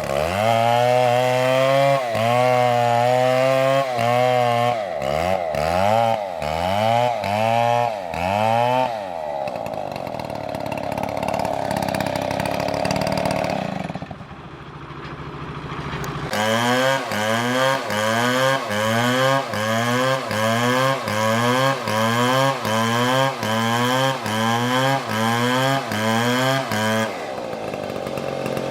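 Stihl MS720 two-stroke chainsaw revving up and down in quick repeated throttle pulses, about two a second. Near the middle it holds a steadier, lower note and dips briefly, then the rapid revving starts again and settles near the end.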